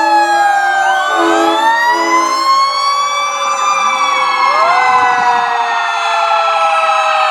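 Several fire apparatus sirens wailing together, their pitches rising and falling out of step with one another. About a second in, a lower, steady-pitched tone pulses on and off briefly.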